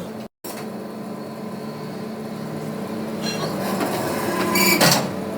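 Workshop machinery running with a steady low hum, with metal clattering building up from about three seconds in and a loud clank near the end.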